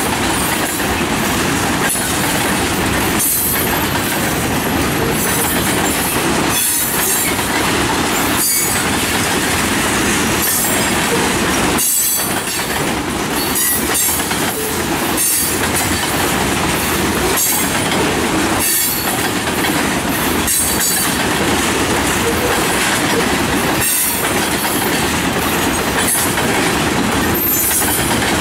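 Freight train of tank cars rolling past a grade crossing: a steady, loud rumble and clatter of steel wheels on rail, with high-pitched wheel squeal at times.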